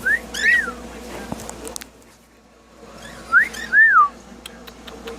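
A cockatiel whistling two short phrases about three seconds apart, each a quick rising note followed by a longer note that rises and falls.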